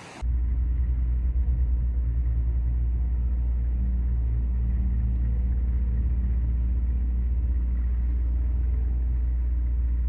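Steady low rumble of a motor vehicle driving, heard from inside the cabin: engine and road noise with a constant low hum. It starts suddenly a moment in.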